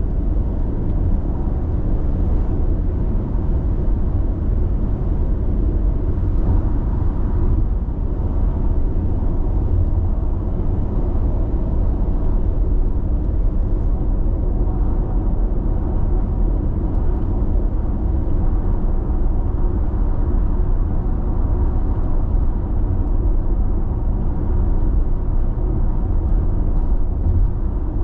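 Road noise inside a car's cabin while cruising at steady expressway speed: an even, low rumble of tyres and engine.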